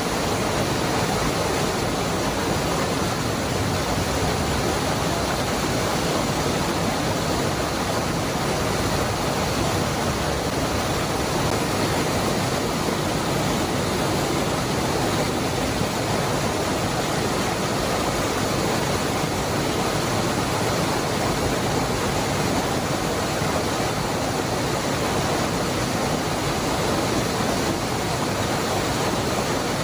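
Cascada del Hervidero waterfall: a steady, even rush of falling water, unchanging throughout.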